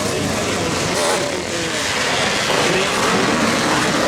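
Motocross motorcycle engines running and revving, several at once, their pitch rising and falling as riders work the throttle.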